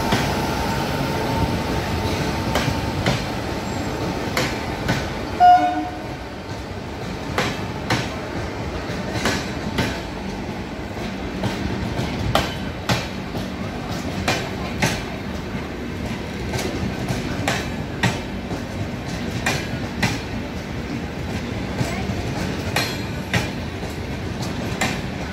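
An electric-hauled express train of passenger coaches rolling past at speed, its wheels clicking over rail joints in a steady rhythm of paired clicks. There is one brief toot about five and a half seconds in.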